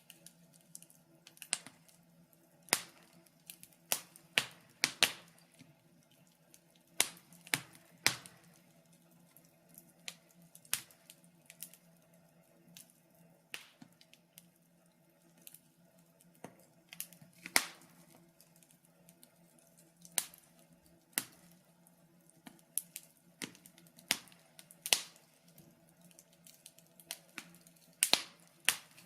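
Wood fire crackling in a fireplace: irregular sharp pops and snaps, a few every second or two, over a faint steady low hum.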